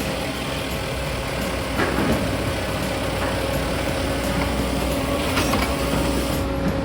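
Firewood processor running on its 74 HP turbocharged Doosan diesel: a steady engine hum with a constant whine from the machinery. A couple of brief knocks, about two seconds in and again later, as wood is handled.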